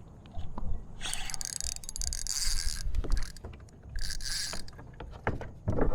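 Fishing reel and tackle handling on a kayak: mechanical clicking and whirring, with hissy bursts from about one to three seconds in and again near four seconds.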